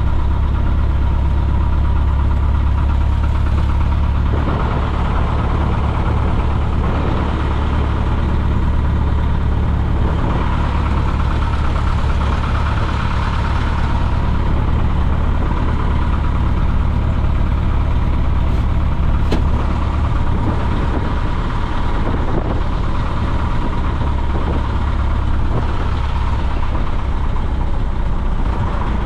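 Piper J-3 Cub's engine and propeller running steadily at a constant drone, heard from inside the small cockpit.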